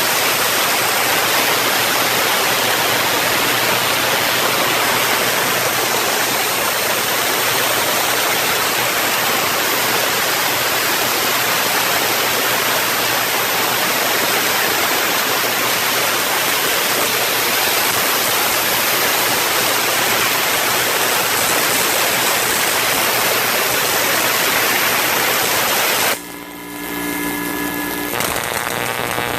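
Artificial thunderstorm sound: a steady, loud rushing like heavy rain, with a low steady hum beneath it. Near the end the rush cuts out suddenly, leaving a quieter ringing of a few steady tones, then the rushing builds back up.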